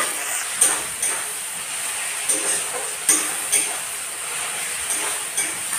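Onion, tomato and cashew pieces sizzling in hot oil in a metal kadai, while a flat metal spatula stirs them and scrapes and knocks against the pan a few times.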